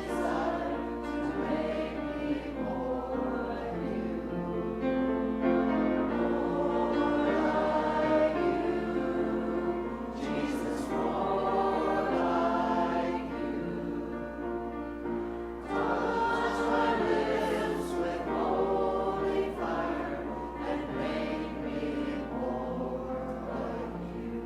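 A choir of voices singing a hymn in held chords, growing softer near the end as the hymn closes.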